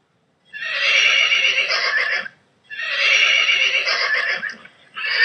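Horse whinnying: two long, quavering neighs of about two seconds each, then a short third call near the end.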